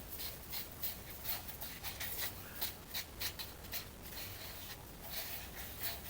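Baking soda and cold water being stirred into a paste in a cup, the stirring utensil scraping against the cup in quick, uneven strokes.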